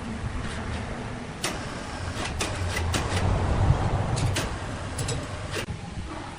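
A woodworking machine running with a steady low hum, with a scatter of sharp knocks and clicks in the middle few seconds.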